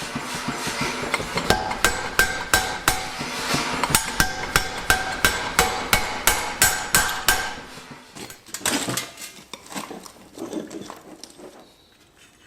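Blacksmith's hammer beating steel on an anvil, about three ringing blows a second, giving way after about eight seconds to scattered lighter knocks.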